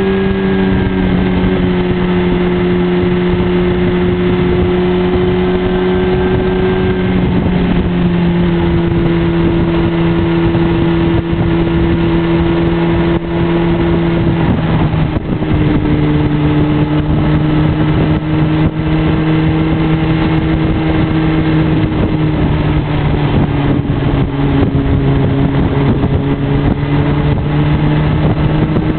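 Motorcycle engine heard from the rider's seat, running steadily at cruising speed under a rush of road and wind noise. Its note steps down slightly about a quarter of the way in and again about halfway through as engine speed eases off.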